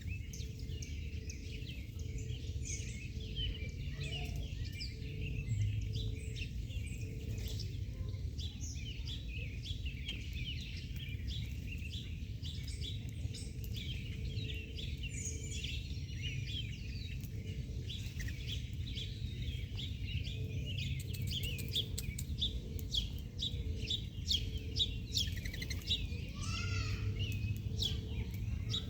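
Many small birds chirping and twittering over and across one another without pause, above a steady low rumble of background noise.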